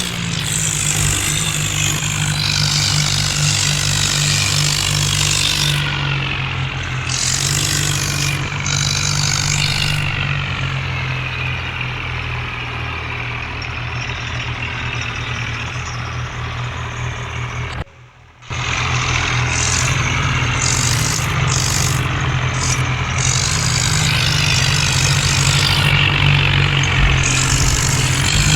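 Tractor diesel engines running hard and steady under heavy load, pulling against each other in a tug-of-war. The sound cuts out for about half a second at around 18 seconds in.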